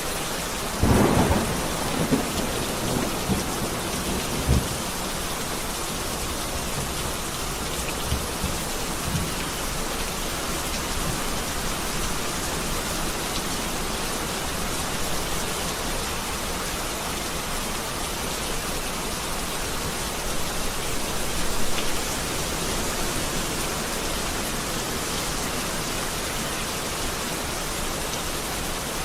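Heavy rain falling steadily, with a loud clap of thunder about a second in that rumbles on for a few seconds, and a lesser rumble later.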